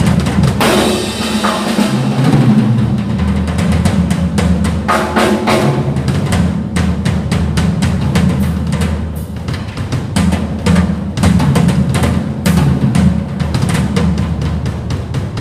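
Drum kit played with bass drum and snare over music, many quick hits over a sustained low bass line.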